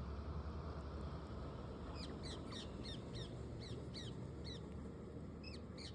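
Pet parrots giving a run of short, sharp chirps, about four a second, starting about two seconds in, with two more near the end, over a steady low hum.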